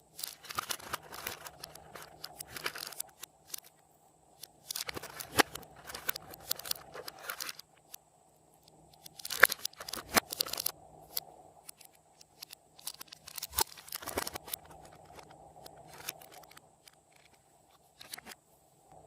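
Store-bought slime being squished and stretched by hand, giving sticky crackling and popping in four bouts with short pauses between them.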